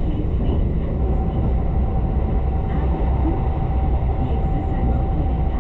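Tobu limited express train running between stations, heard from inside the car: a steady low rumble, with a thin steady tone joining about a second in.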